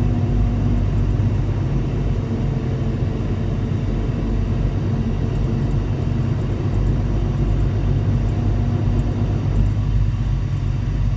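Semi truck's diesel engine running, heard from inside the cab: a steady low rumble with a faint hum that fades out near the end.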